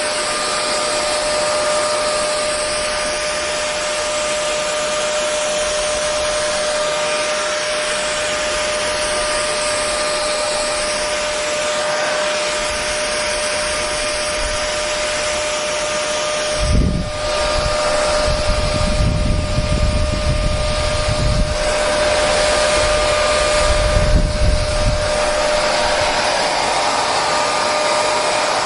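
Electric hair dryer running steadily: rushing air with a steady motor whine. In the second half there are a few short stretches of low rumble.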